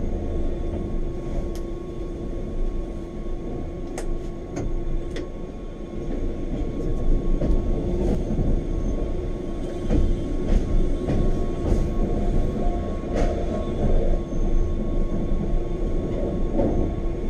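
Electric rack-railway train of the Wengernalp line running: a steady low rumble with a constant electric hum, and scattered sharp clicks and knocks from the wheels and track.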